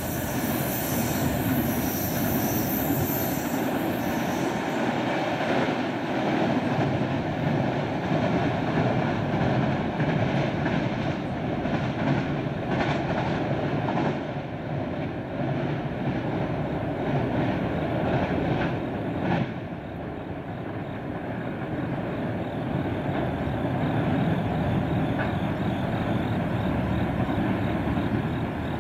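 Freight train cars rolling past on the rails: a steady rumble and rattle of steel wheels on track, dipping briefly about twenty seconds in.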